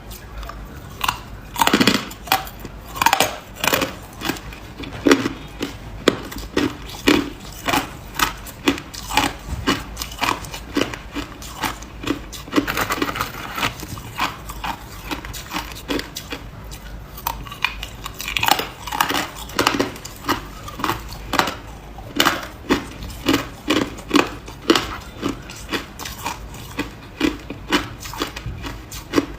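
Ice being bitten and chewed close up: a long run of sharp crunches, one to two a second, packed closer together around the middle.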